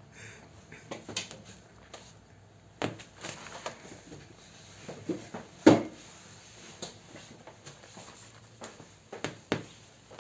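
Irregular knocks and taps, about a dozen, with one sharper, louder knock about halfway through.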